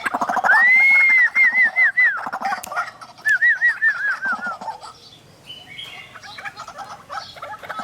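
White-breasted waterhens calling: a fast chattering croak under two runs of clear arched whistled notes. Each run starts with one long note and falls away in short repeated notes, the second run about three seconds in. Softer scattered calls follow.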